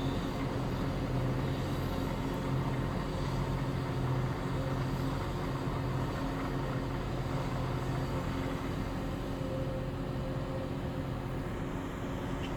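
Heavy diesel engines of a hydraulic excavator and dump truck running steadily during loading: an even drone that swells slightly now and then.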